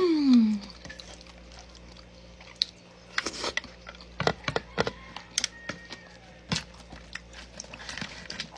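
Eating by hand: scattered small clicks and soft taps of fingers and food against a plate, with chewing. It opens with one short voiced sound that rises and falls in pitch.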